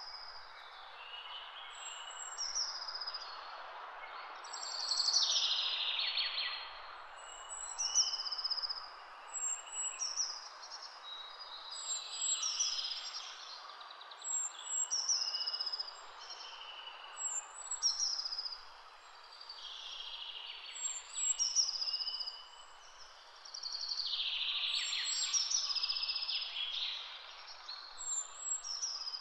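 Birds singing over a steady background hiss, one bird repeating a short high call every second or two.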